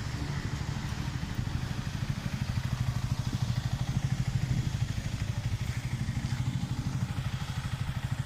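Yamaha XSR155's single-cylinder engine running steadily while riding, a low drone with fast, even pulsing.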